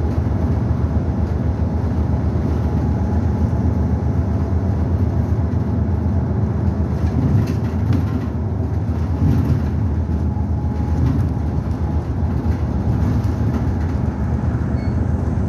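Nagasaki city bus heard from inside the cabin, its engine running with a steady low rumble.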